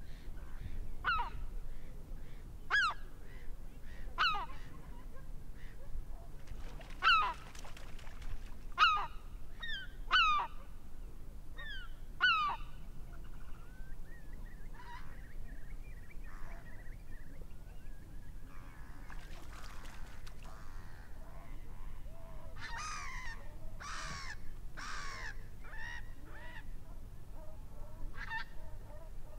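Water birds calling: short, loud calls repeated every second or two, a burst of several overlapping calls about 23 seconds in, and one more near the end, over a steady low rumble.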